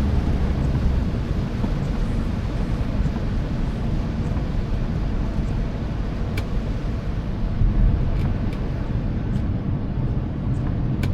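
A car driving along, with steady low road and engine rumble and a few faint ticks over it.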